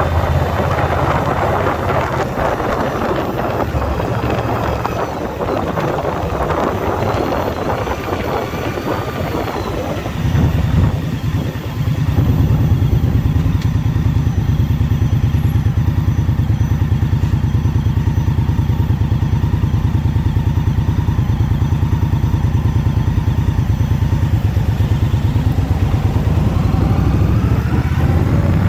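2021 Indian Scout Bobber Twenty's V-twin engine running while riding, mixed at first with wind rush. About ten seconds in the rush drops away and the engine's low, even throb takes over.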